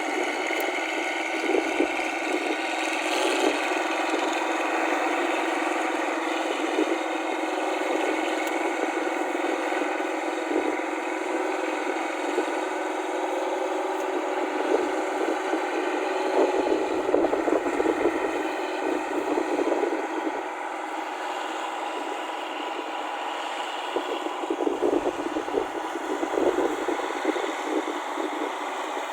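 Rice combine harvester running steadily, its engine humming under a constant mechanical rattle. Several bursts of louder clattering and knocking come through, the longest a little past halfway and another near the end.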